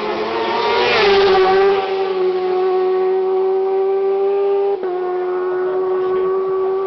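Superbike racing motorcycle going past at full speed. Its engine note is loud and high-revving, dropping in pitch as it passes about a second in, then held steady as it carries on.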